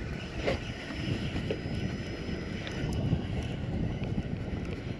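Steady wash of water against a fishing kayak's hull, with wind buffeting the microphone.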